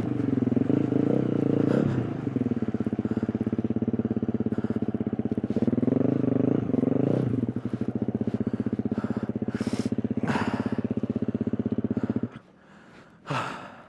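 KTM 350 EXC-F dirt bike's single-cylinder four-stroke engine running under the rider at low revs, rising in pitch twice as the throttle is opened, then cutting off suddenly about twelve seconds in. The rider's heavy breathing comes through, loudest just after the engine stops.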